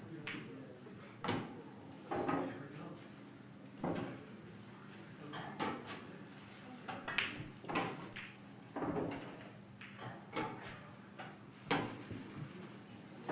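Pool balls knocking and clacking on a table: about a dozen sharp, irregularly spaced knocks over a faint steady hum.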